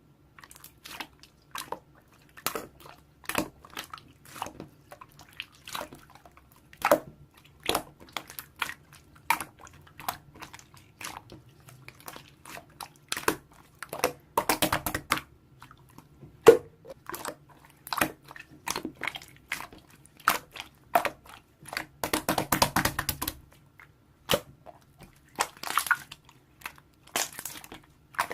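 Close-up crisp crunching and crinkling: irregular sharp cracks, with two denser spells of rapid crackling, one about halfway through and one near the end.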